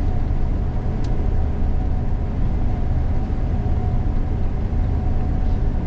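Steady low drone of a Gleaner combine's engine and machinery heard inside the cab while harvesting soybeans.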